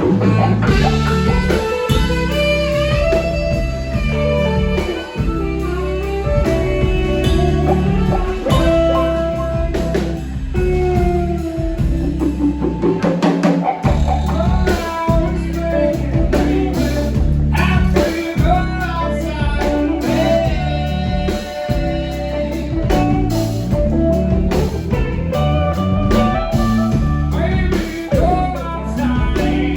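Live blues band playing: guitar with bending, sliding melodic notes over bass and drum kit.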